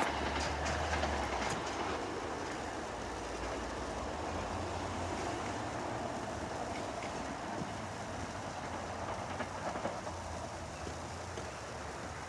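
SEPTA regional rail electric multiple-unit train pulling away, its wheels clicking over the rail joints and its running noise fading steadily as it leaves.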